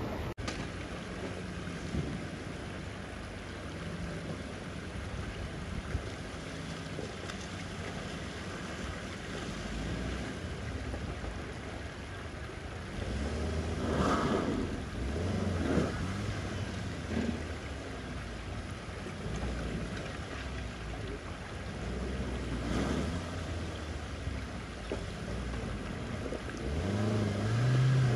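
Off-road SUV engine running under steady wind rumble on the microphone. The engine revs up about halfway through and again, louder, near the end.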